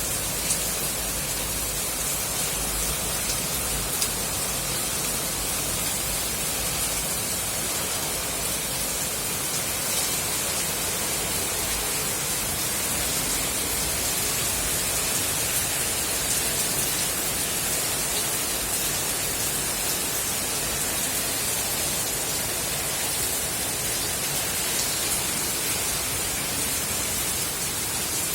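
Steady rain falling: an even, unbroken hiss with a few faint ticks of drops.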